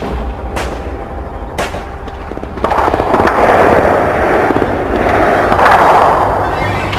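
War sound-effects ambience: a few single gunshots over a low rumble, then, about two and a half seconds in, a loud dense crackling barrage starts suddenly, swells and eases.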